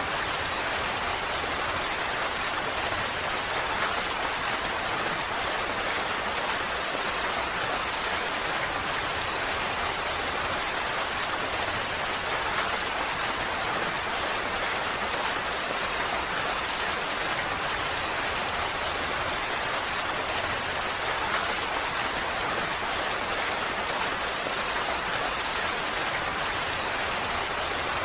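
Steady rainfall, an even hiss with scattered drops pattering on surfaces.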